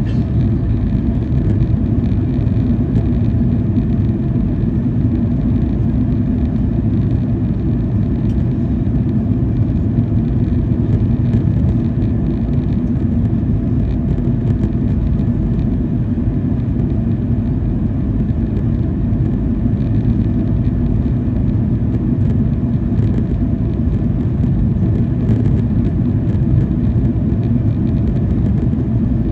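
Steady cabin noise of a Boeing 737-800, heard from inside near the wing: an even, low rumble of the jet engines and airflow with no sudden changes.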